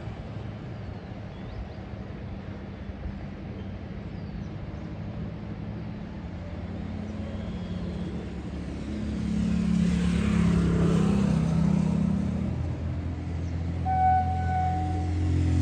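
Road traffic at a railroad crossing: a vehicle passes about ten seconds in, while a deep engine rumble builds and grows louder toward the end. A short, steady pitched tone sounds twice near the end.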